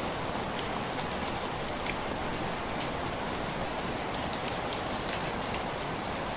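Steady rain with individual drops tapping against window glass, a dense even patter with scattered sharper drop ticks.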